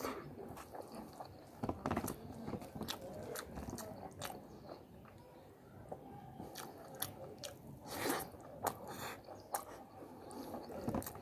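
Close-miked chewing of mouthfuls of chicken and rice eaten by hand, with many short wet mouth clicks and smacks, loudest about two seconds in and again about eight seconds in.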